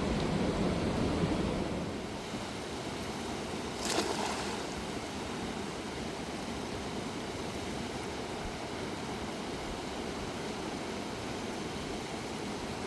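Steady rush of a fast-flowing river, louder for the first two seconds, with a single sharp knock about four seconds in.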